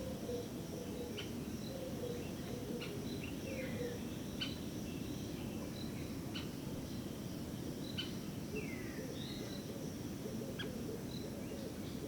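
Outdoor woodland ambience: a steady low background rumble under a continuous high insect buzz, with scattered short bird chirps and two descending bird calls, one about a third of the way in and one about three-quarters of the way in. A soft row of low notes runs through the first few seconds.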